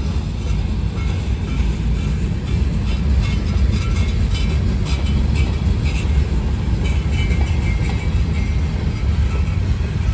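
Freight cars rolling past on the rails, a steady heavy rumble of wheels on track, with some short high squeals and clicks from the wheels in the middle.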